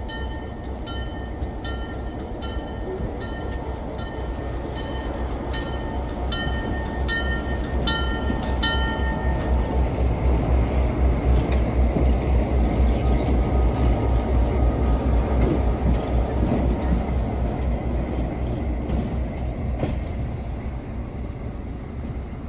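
Train passing: a low rumble with rapid pulsing swells to its loudest midway and then slowly fades. Over the first nine seconds or so a high metallic ring repeats about once or twice a second, then stops.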